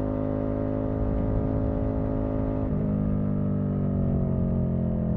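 Motorcycle engine running at a steady note. Its pitch shifts about two and a half seconds in, then falls slowly as the engine winds down.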